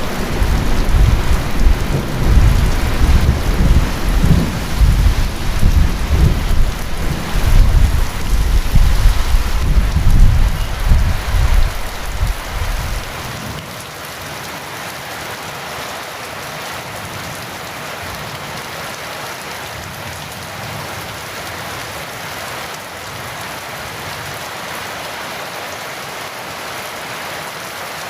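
Heavy rain falling steadily, with a long peal of thunder rumbling through the first half that dies away about thirteen seconds in, leaving only the rain.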